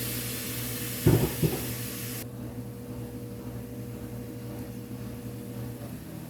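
Food sizzling in a frying pan, with two knocks about a second in, like a pan or utensil being set down. The sizzle cuts off suddenly about two seconds in, leaving a steady low hum.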